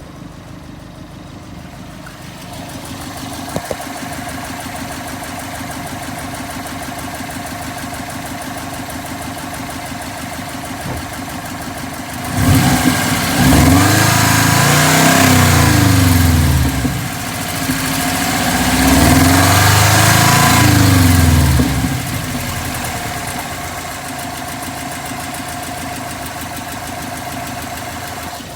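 2012 Subaru WRX's turbocharged 2.5-litre flat-four idling, revved up and back down twice about halfway through, then settling to idle. The owner questions whether its noise is a spun rod bearing or just valve chatter.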